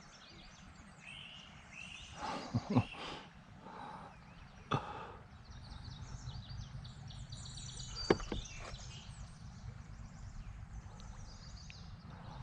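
Wild birds chirping and singing outdoors, with many short high calls, over a steady low background rumble. A few sharp knocks stand out, two close together a little over two seconds in, one near five seconds and one about eight seconds in.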